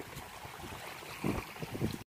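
Wind buffeting the microphone in uneven gusts, louder about a second in and again near the end.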